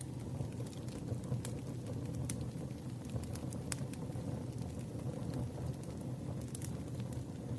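Campfire crackling: a steady low rumble of burning wood with irregular sharp pops and snaps scattered throughout.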